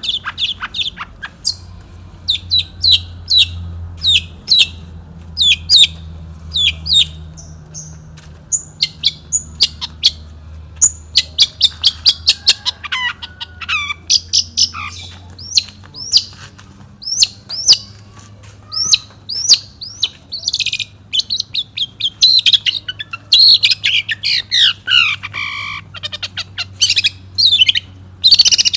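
Long-tailed shrike (cendet) singing a fast run of short, sharp chirps and quick sweeping notes, with a few longer notes sliding downward near the end. A steady low hum runs underneath.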